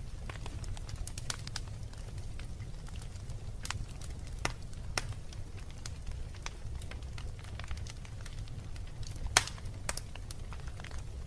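Wood fire burning in a fireplace: a steady low rumble with irregular sharp crackles and pops, the loudest pop about nine seconds in.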